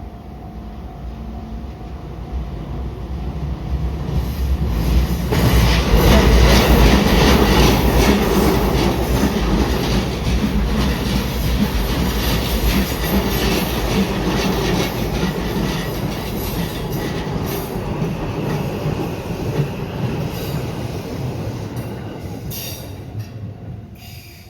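Ome Line electric train passing over a level crossing. The wheels clack over the rail joints as it grows louder, is loudest a few seconds in, and fades away near the end.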